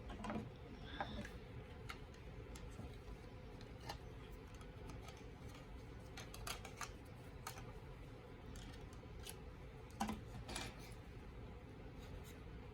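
Plastic parts of a snap-together model kit clicking and tapping as they are handled and pushed into place. A sharper click comes about ten seconds in.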